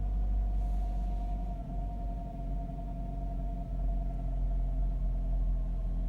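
2008 Mazda 5's engine idling cold with a low, uneven rumble and a steady whine over it. The owner reports it misfiring (running on three cylinders) only when cold in cool weather, despite a cleaned throttle body, new filters, fresh oil and clean spark plugs.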